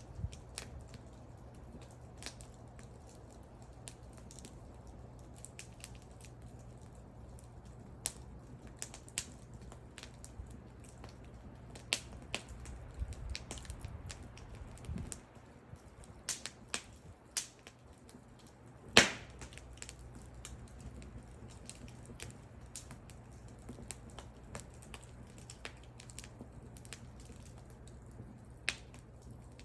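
Wood fire crackling: burning logs give irregular sharp pops and snaps over a low steady rumble, with one loud pop about two-thirds of the way through.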